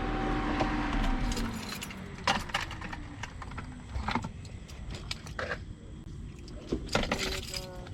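A bunch of keys jangling in short, irregular clinks as they are picked up and handled. A steady hum falls in pitch and dies away within the first couple of seconds.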